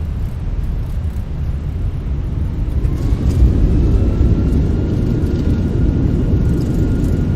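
Airbus airliner on the landing rollout, heard from the cockpit: a steady low rumble of the runway and airframe. About three seconds in the engines' whine rises in pitch and then holds while the rumble grows.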